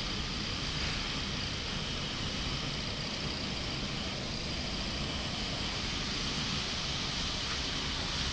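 Torrential rain falling in a heavy downpour, a steady, unbroken wash of noise.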